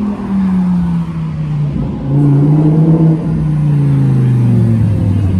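Car engine running, its note sliding steadily down in pitch and getting louder about two seconds in.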